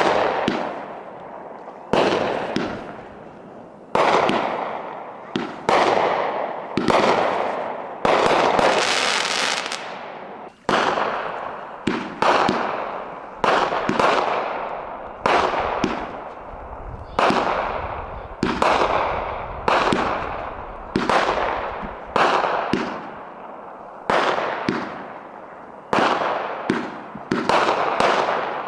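Fireworks going off: a steady run of sharp bangs, about one every second or two, each trailing off in a fading crackle, with a denser burst of crackling about a third of the way through.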